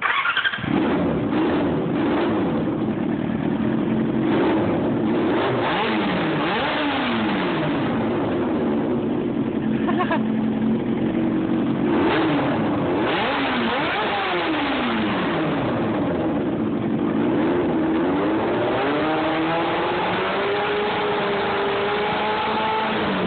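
2001 Yamaha R6's inline-four engine through a D&D slip-on exhaust, starting up suddenly about half a second in, then idling with throttle blips that rise and fall back. Near the end the revs climb and hold higher.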